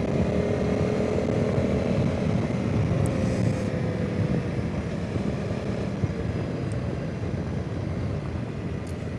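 Honda CRF300 Rally's single-cylinder engine running on the move, its note sinking slightly as the bike eases off, under a heavy rumble of wind on the microphone.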